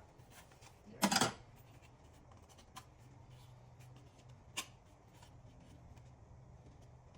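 Small metal nuts and bolts being handled and set into a piece of cardboard: a short rustling clatter about a second in, then a couple of light clicks.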